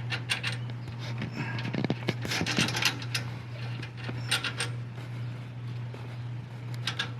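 Steel parts and tools clinking and scraping in uneven, scattered clicks as a differential carrier bearing cap is loosened and lifted off the axle housing, with a steady low hum underneath.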